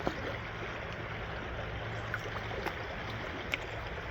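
Steady rush of flowing creek water, with a few faint sharp clicks scattered through it.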